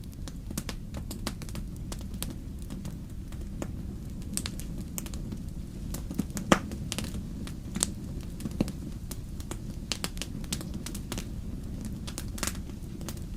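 Wood fire burning in a fireplace: a steady low rumble of flames with frequent irregular crackles and pops, one sharper pop about six and a half seconds in.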